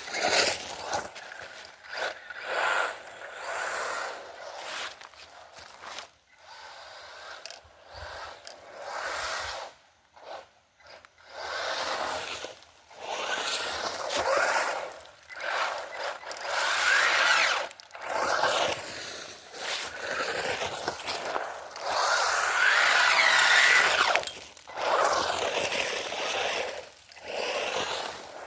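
Small electric motor of a radio-controlled model running in repeated throttle bursts. It whines, rising and falling in pitch, over a rough scraping noise, with brief drops between bursts.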